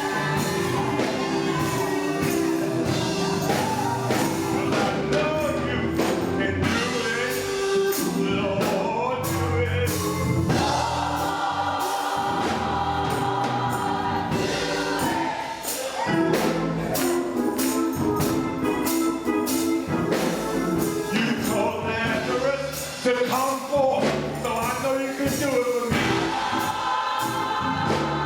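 Gospel choir singing in full voice over a band, with held chords and a steady beat of drum and percussion hits.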